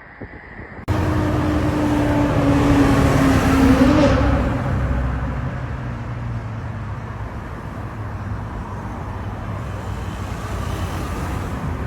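Lamborghini Huracán STO's V10 engine running as the car drives. The sound cuts in suddenly about a second in, swells to its loudest about four seconds in, then settles lower and steady.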